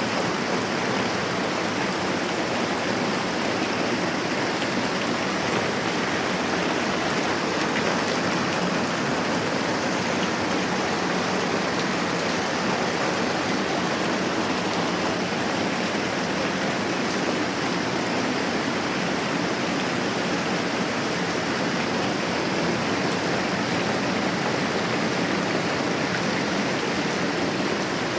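Steady moderate rain, an even hiss that does not let up.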